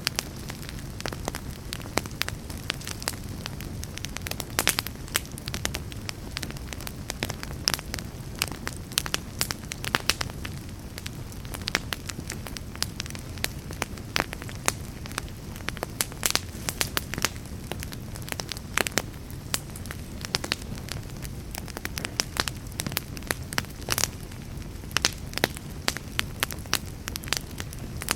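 Wood fire crackling in a fireplace: a low, steady rumble of the flames with frequent irregular sharp pops and snaps.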